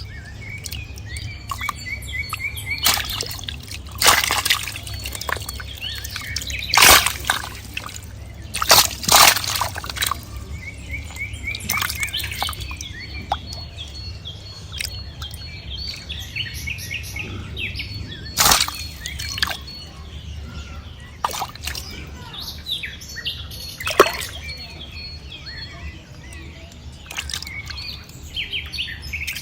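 Small birds chirping in short repeated calls while water sloshes and splashes, with several sharp splashes or knocks standing out, over a steady low hum.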